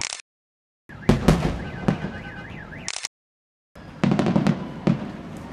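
Fireworks going off: a run of sharp bangs and crackles, with a wavering high tone a little before the middle. The sound cuts out completely twice, for about half a second each time.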